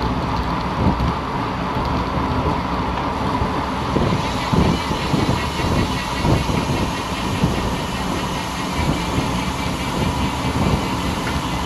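Wind rushing over the microphone on a road bike at speed, with a steady rumble of tyres on the road and no break in it.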